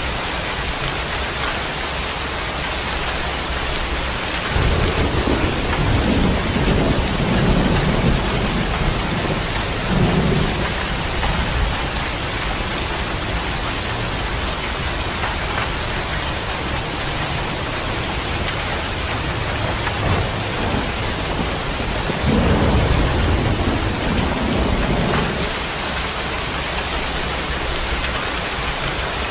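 Steady rain falling, with two rolls of thunder rumbling low, one from about four seconds in lasting several seconds and a shorter one near twenty-two seconds.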